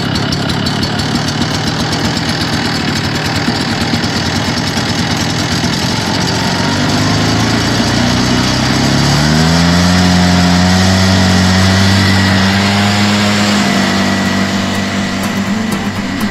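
Small engine of an Echo outdoor power tool, running after a cold start in freezing weather. It runs steadily, revs up about halfway through, holds the higher speed for several seconds, then eases back near the end.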